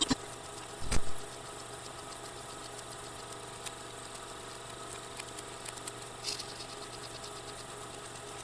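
A steady machine-like hum with several steady tones, a few faint clicks, and one short low thump about a second in.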